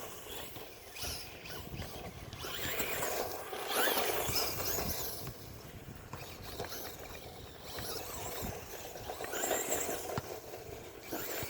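Traxxas Rustler VXL RC truck driving, its brushless motor whining up and down in pitch in several short spurts of throttle over a rough, noisy rushing.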